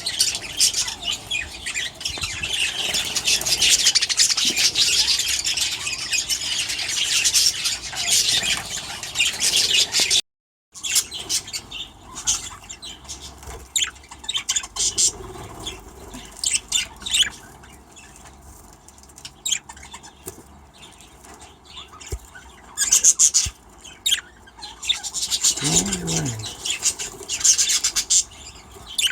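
A flock of budgerigars chirping and chattering in an aviary, densely for the first ten seconds and more sparsely after a brief break. A short low falling sound near the end.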